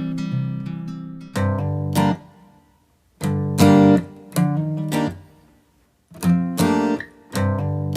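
Acoustic guitar music with strummed chords in short phrases, with brief near-silent gaps between them.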